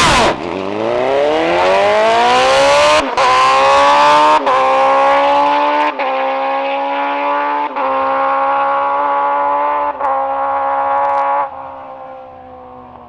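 A drag-racing car launching and accelerating hard down the strip, its engine pitch climbing with a brief dip at each of several gear changes. The engine sound fades away about 11.5 seconds in as the car runs off down the track.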